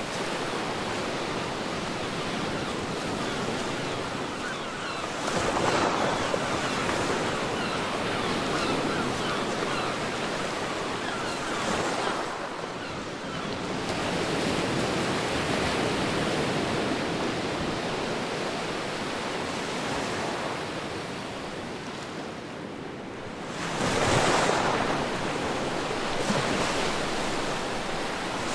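Ocean waves breaking and washing on a beach in a continuous rush, swelling as waves break about five seconds in, again near twelve seconds, and most loudly near the end.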